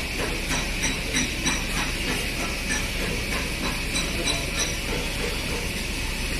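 A hammer tapping on sheet metal, about three light strikes a second with a brief metallic ring to each, stopping about three-quarters of the way through, over a steady hiss.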